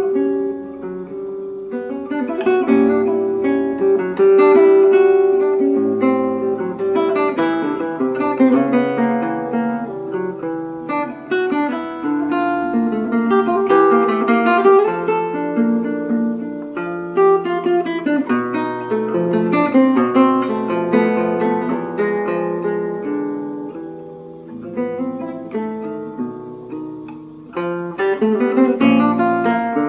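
Acoustic guitar playing a composed instrumental piece: quick plucked notes and chords, with a quieter passage near the end before strummed chords come back louder.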